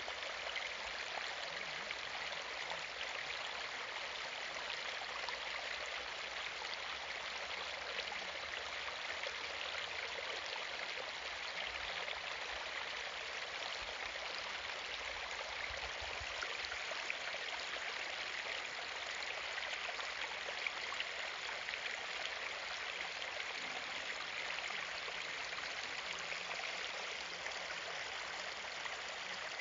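Water trickling steadily, a continuous splashing and bubbling with no pauses.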